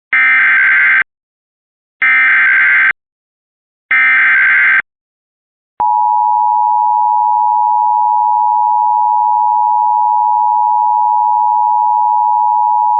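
Emergency Alert System tones on an FM radio broadcast: three one-second bursts of SAME digital header data, about two seconds apart, then the steady two-tone attention signal starting about six seconds in. The sequence opens a National Weather Service severe thunderstorm warning.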